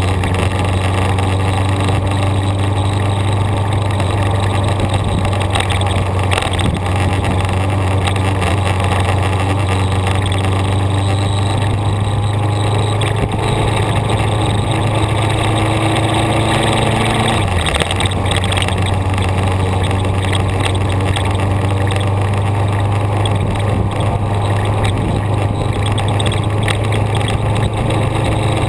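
A road vehicle's engine running steadily while driving, a constant low drone over road and wind noise. About seventeen seconds in, the engine note dips briefly and then settles again.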